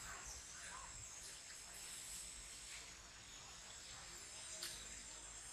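Faint outdoor ambience: a steady high-pitched insect drone, with a few faint short chirps.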